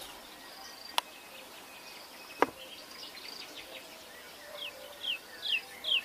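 Songbird chirping: a run of short falling chirps, about two a second, in the last second and a half, over a faint steady insect buzz. Two sharp clicks come about a second and two and a half seconds in, the second the loudest sound.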